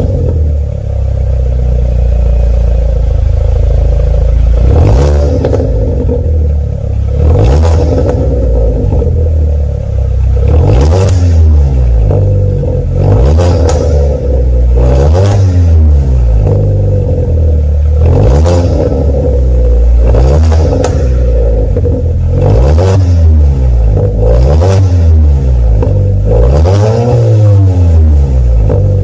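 Kia K5 (DL3) 1.6-litre turbo four-cylinder through an aftermarket variable exhaust, idling and then blipped up and down about a dozen times, roughly every two seconds, each rev rising and falling.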